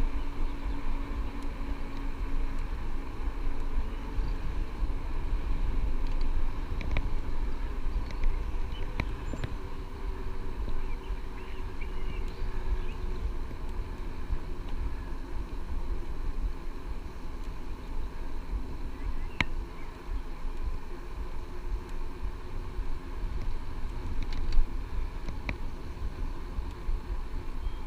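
Wind rumbling on the microphone with rolling road noise from a moving electric bike, a few faint clicks, and one brief louder bump near the end.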